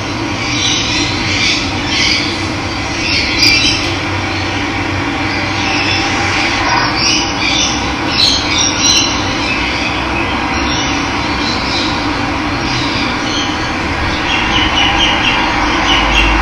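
Steady rush of running water, with many birds chirping and calling over it in short, scattered bursts.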